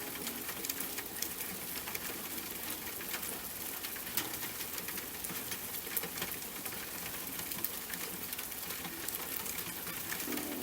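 Steady rain with many sharp, separate drop ticks striking a hard surface.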